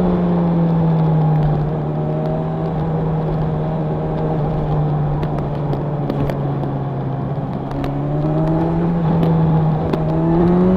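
Honda CB1000R's inline-four engine and exhaust running on the move. The note eases off over the first few seconds, holds steady, then rises again near the end as the bike accelerates.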